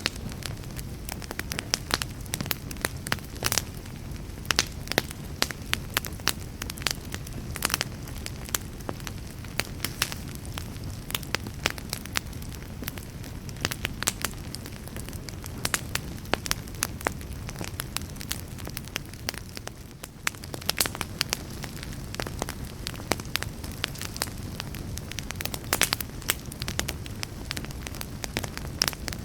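Wood fire burning in a fireplace: a steady low rumble of the flames with many irregular, sharp crackles and pops from the burning logs.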